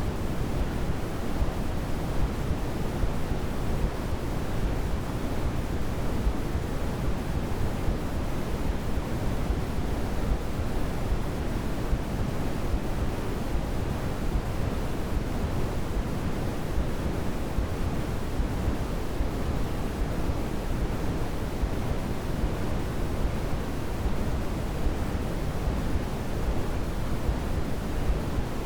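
Steady, unchanging white-noise sleep sound: an even hiss with no tones or breaks, heavier in the low end than in the highs, like pink noise.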